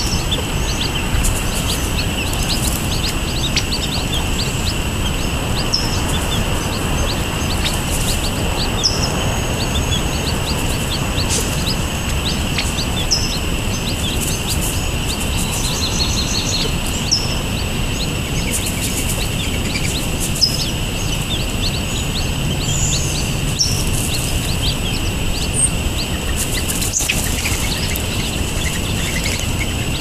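Short, high bird chirps and peeps scattered throughout, over a steady high-pitched hiss and a low background rumble.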